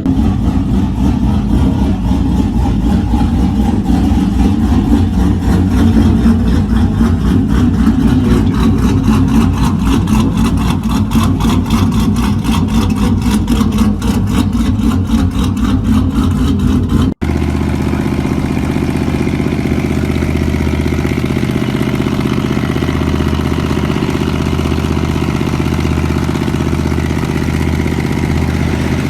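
Pickup truck engine running through a loud exhaust, with a rapid even pulsing for the first seventeen seconds or so. Then an abrupt cut to a steadier engine idling.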